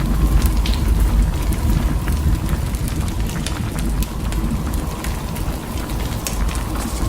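Storm wind rumbling steadily, with scattered small crackles and ticks over it.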